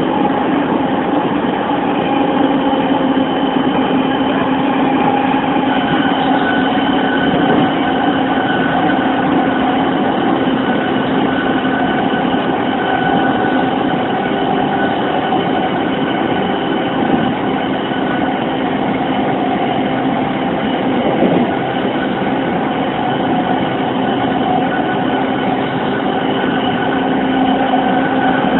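E231 series 1000-number electric train with Mitsubishi VVVF inverter control running steadily between stations: an even rumble of wheels on rail with several steady whining tones from the traction equipment.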